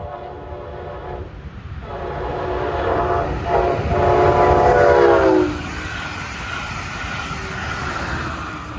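Brightline passenger train sounding its horn for a grade crossing: a blast of over a second, then a longer one with a brief break, dropping in pitch as the train passes and cutting off about five seconds in. The rushing noise of the fast train going by follows.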